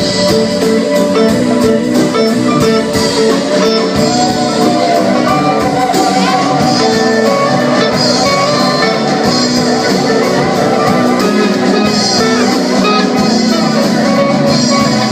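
Live band music: electric guitar and other instruments with a steady drum beat.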